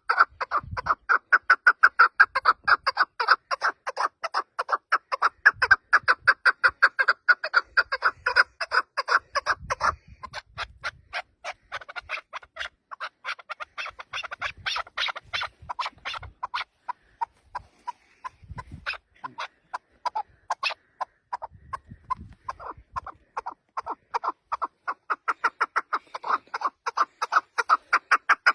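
Chukar partridge calling: a long run of rapid, repeated clucking 'chuk' notes, about five or six a second. The calls are loudest for the first ten seconds and again near the end, and softer and more ragged in between.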